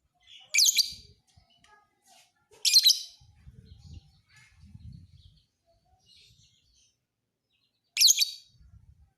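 Lovebird singing: three loud, shrill, rapid chirping bursts of about half a second each, with softer scattered chirps between them.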